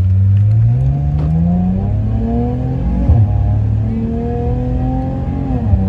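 Straight-piped Dodge Charger engine, with muffler and resonator deleted, accelerating: the revs climb for about two seconds, drop sharply as it shifts up about three seconds in, climb again, and fall off just before the end.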